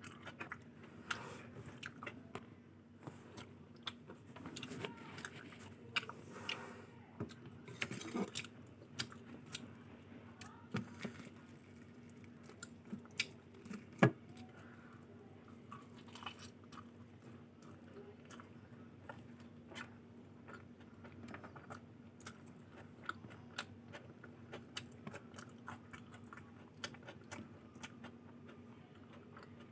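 Close-miked chewing and biting of food: many small wet clicks and smacks, with one sharp, much louder click about halfway through. A faint steady hum runs underneath.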